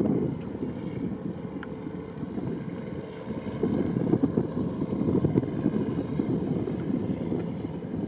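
Boat under way: a low, unsteady rumble of engine and water, with wind buffeting the microphone.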